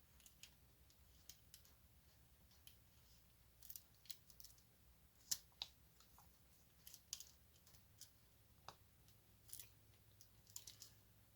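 Faint, irregular clicks and taps of a diamond-painting drill pen picking up small resin drills and pressing them onto the canvas, over a low steady room hum.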